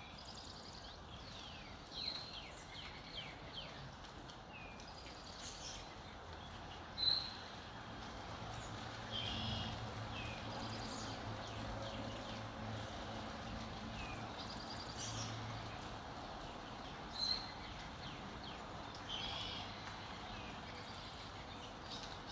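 Several songbirds chirping and trilling in a dawn chorus, with short sharp calls standing out about 7 and 17 seconds in. A faint low hum sits under the birds through the middle stretch.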